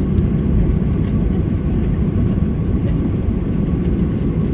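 Steady low rumble inside the cabin of a Boeing 737-800 rolling along the ground after landing, with faint light rattles and ticks over it.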